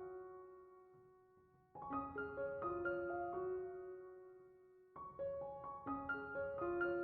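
Background piano music: gentle phrases of notes that ring and fade, with new phrases starting about two and five seconds in.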